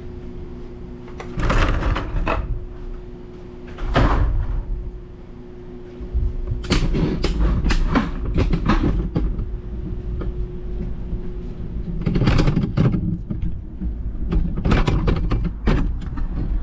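Repeated knocks and rattles in several bursts, over a steady mechanical hum that stops about eleven seconds in.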